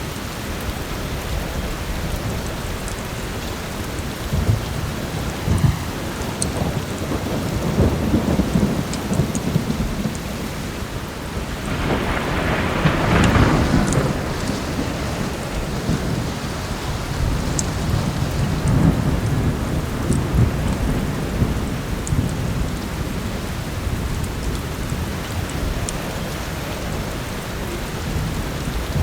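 Steady heavy rain with rolling thunder, the loudest roll swelling about halfway through, and scattered faint crackles of a wood fire.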